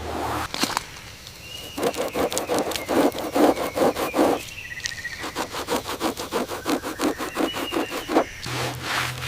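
Rapid, rhythmic scraping strokes, about four or five a second, in two runs with a short break between them.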